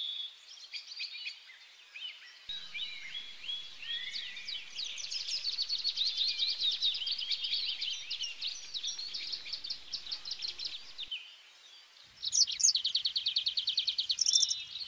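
Small songbirds chirping and trilling, several calls overlapping. After a short lull, a louder, fast, evenly repeated trill starts about twelve seconds in.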